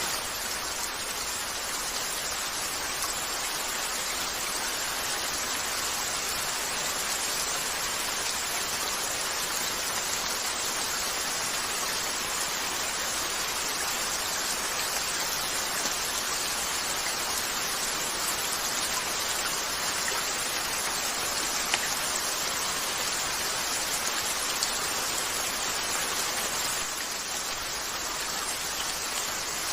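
Steady rain falling on a window, a continuous even hiss, with a couple of faint sharp ticks late on.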